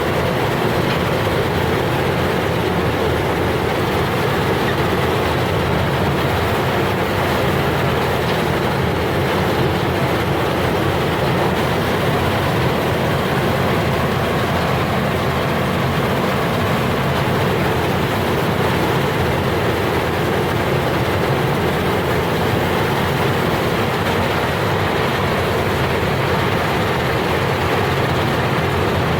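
Combine harvester running steadily, a loud unchanging drone of engine and machinery.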